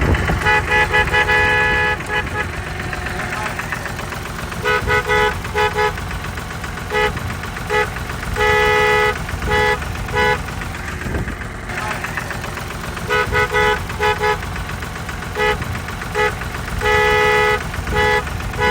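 Busy street traffic with a car horn honking again and again in short toots and clusters of quick beeps, all at the same pitch, over a steady rumble of traffic noise.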